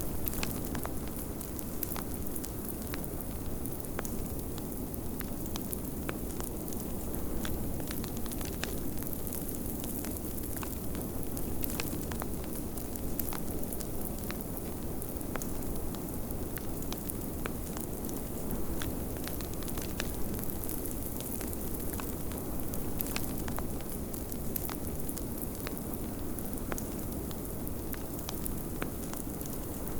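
Fireplace fire crackling with frequent small, irregular pops, over the steady low rush of blizzard wind.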